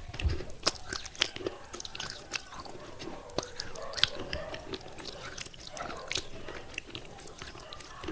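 A person biting and chewing thick pieces of broken fired clay pot, with sharp, irregular crunches. The loudest crunch comes about four seconds in.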